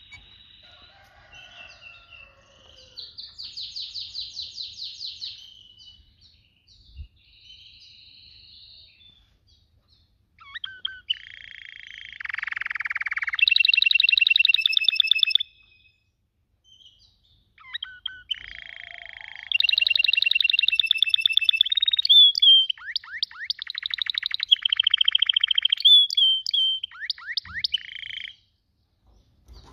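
Domestic canary singing: phrases of fast, high-pitched trills separated by short pauses, soft at first and louder from about ten seconds in.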